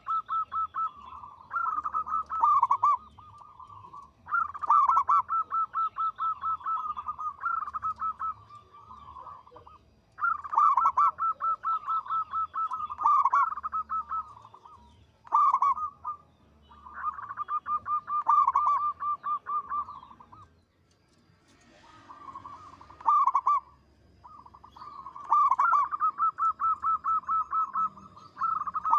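Zebra dove (perkutut) cooing. It sings a string of song phrases, each a quick run of pulsed coo notes, with short pauses between phrases.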